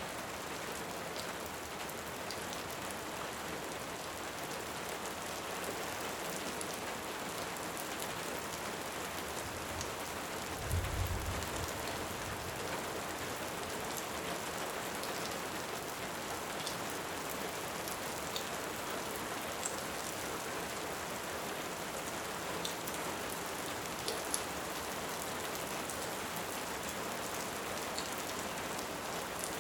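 Steady rain with scattered small crackles of a wood fire. About a third of the way in there is a short, low rumble of distant thunder.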